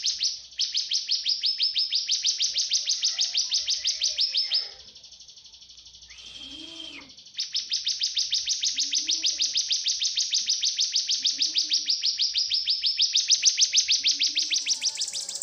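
Cigun songbird giving a fast, even trill of high chip notes, about ten a second. The trill breaks off for about two seconds in the middle, where a single short call is heard, then resumes.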